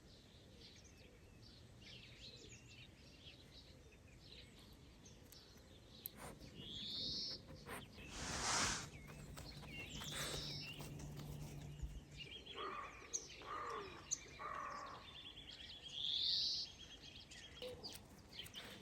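Birds chirping and whistling outdoors, with several short high calls and a few harsher calls between about twelve and fifteen seconds in. A brief rush of noise comes about eight seconds in, and a faint low hum runs underneath from about six to twelve seconds.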